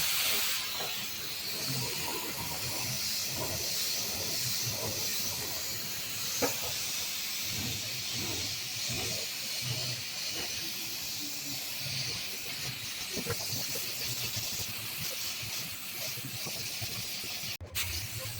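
Steady hiss of a compressed-air paint spray gun, broken off for a moment near the end.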